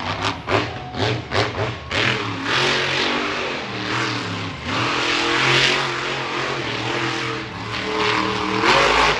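Monster truck's supercharged V8 engine revving hard and repeatedly during a freestyle run, its pitch climbing and dropping again and again.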